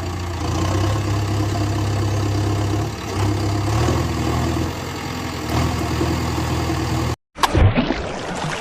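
A vehicle engine idling steadily with an even low hum. It cuts off abruptly about seven seconds in, and a short, loud noisy burst follows.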